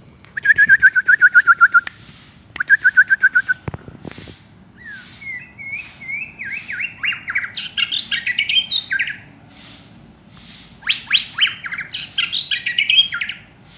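White-rumped shama singing loudly: two runs of fast repeated whistled notes, then long varied phrases of quick sweeping and warbled notes, with short pauses between bouts. A low thump about four seconds in.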